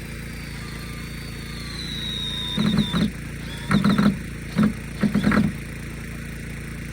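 A steady motor hum, with four short bursts of a power drill driving fasteners starting about two and a half seconds in.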